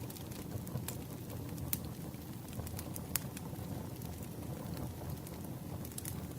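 Campfire burning, a steady low rumble of flames with scattered sharp crackles and pops, three of them louder.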